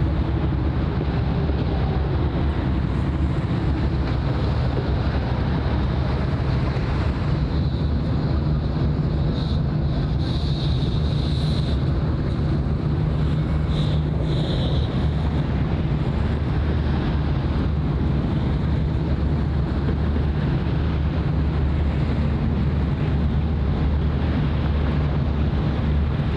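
Steady low rumble of a boat engine, with wind buffeting the microphone and water washing. Two brief high-pitched sounds come about ten and fourteen seconds in.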